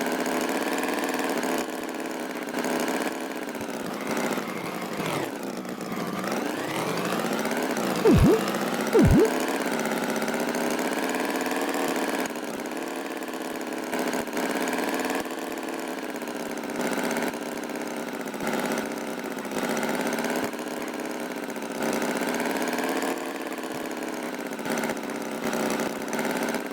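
A tractor engine runs steadily, its pitch wavering up and down, with small recurring rises in loudness. Two short, sharp sounds come about eight and nine seconds in.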